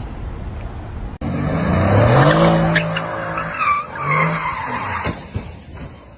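A car engine revving up hard, rising in pitch, with tyres skidding and squealing; it starts abruptly about a second in, and a couple of sharp knocks come partway through.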